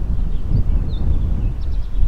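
Gusty wind buffeting the microphone ahead of an oncoming thunderstorm, a steady low rumble. Faint high chirps of a small bird come in over it from about half a second in.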